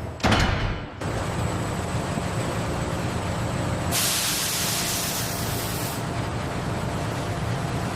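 A heavy thud, then steady machinery hum with a two-second burst of hissing air about four seconds in.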